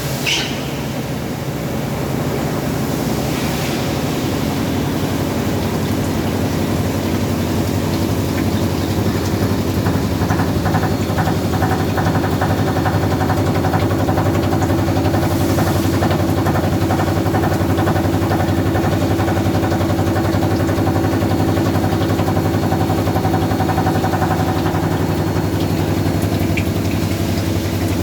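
CNC machine running steadily with a low hum and steady tones. From about ten seconds in, a higher whine and a fast, even ticking join it.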